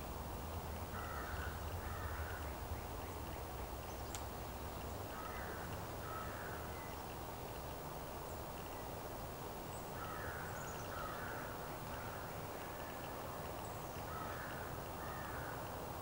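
A bird calling in pairs of two short notes, four pairs a few seconds apart, with a few faint high chirps of small birds and a low background rumble that eases after the first few seconds.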